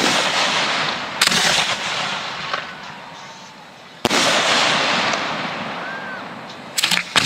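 Professional 1.3G display fireworks going off: a sudden loud report at the start and another about four seconds in, each fading away slowly, with a sharp crack about a second in and a quick run of cracks near the end.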